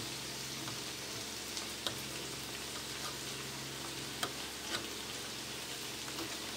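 Steady sizzle of onions frying in oil and butter in a pan, with a few faint clicks of a knife on a steel plate as a block of paneer is sliced under water.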